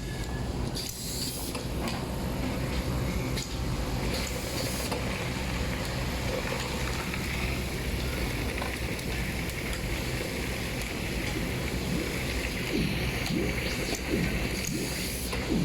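Automatic screwdriving machine running over steady factory hum, with two short hissing spells in the first few seconds and scattered clicks.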